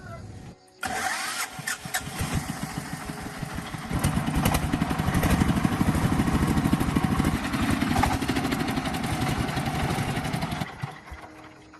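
An engine starts suddenly and runs with a fast, rough pulsing beat. It gets louder about four seconds in, then dies away near the end.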